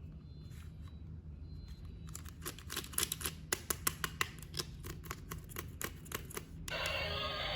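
A quick, irregular run of sharp clicks and taps for a few seconds, with a low hum underneath. Music starts near the end.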